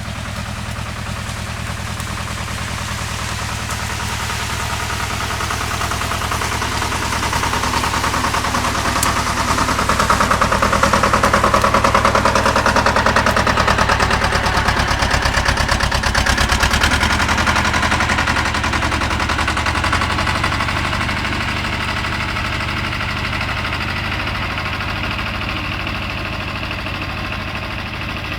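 BJR Falcon 40 articulated tractor's engine running steadily, growing louder towards the middle and fading again.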